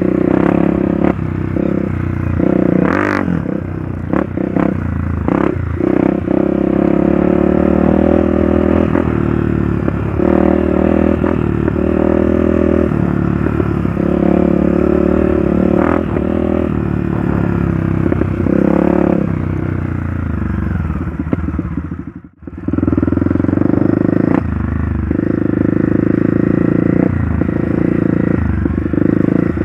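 Trail motorcycle engine running while riding, its pitch rising and falling as the throttle changes, with scattered knocks and rattles. The sound drops out briefly about three-quarters of the way through.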